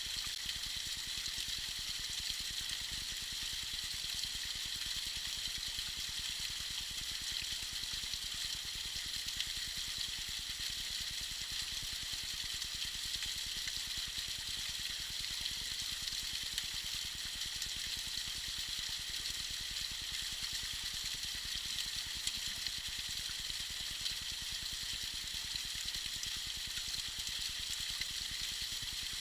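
Tiny waterfall splashing steadily, an even, bright hiss of falling water that does not change.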